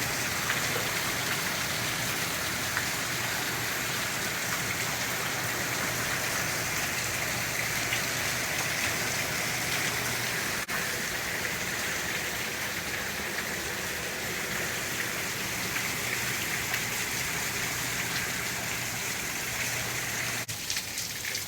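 Heavy hurricane rain pouring steadily, driven by strong wind. The sound changes slightly near the end.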